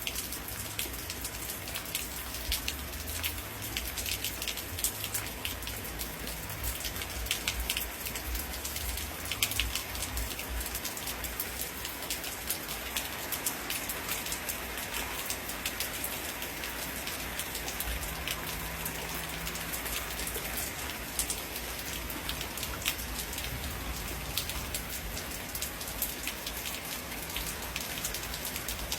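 Steady rain with many separate drops pattering and ticking close by, over a low rumble.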